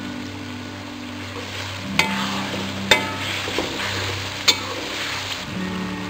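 Sliced onions sizzling in hot oil in a metal wok while a metal ladle stirs and scrapes through them. The ladle clinks sharply against the pan three times, about two, three and four and a half seconds in, each with a short ring.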